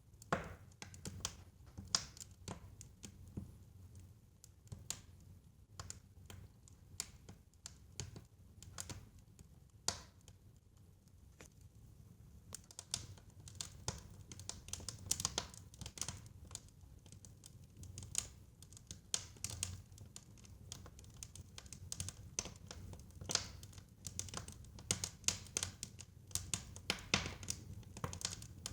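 Fire crackling in a fireplace: irregular pops and snaps, some sharper and louder, over a low steady rumble.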